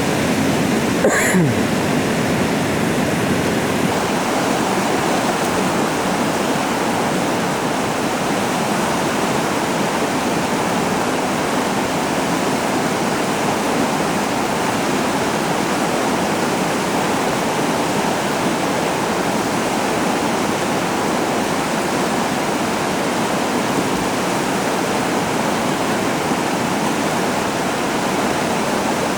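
Steady rushing of whitewater, a river falls or rapid, with no break in it.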